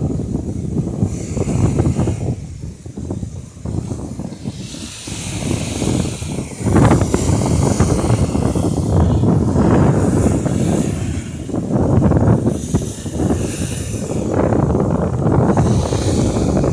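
Wind buffeting the microphone: a loud, gusty low rumble that swells and fades every second or two, over a steady hiss.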